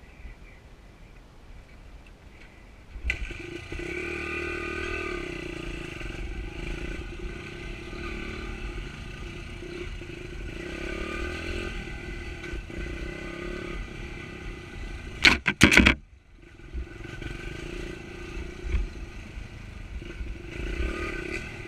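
Honda pit bike's small single-cylinder four-stroke engine, which comes in abruptly about three seconds in and runs steadily. About fifteen seconds in there is a brief burst of loud, sharp noise, then the engine carries on running.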